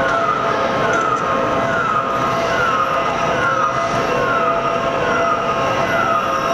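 Warning alarm of the workshop lifting equipment sounding during a railway car-body lift: a short falling electronic tone repeating about every 0.7 seconds over a few steady held tones.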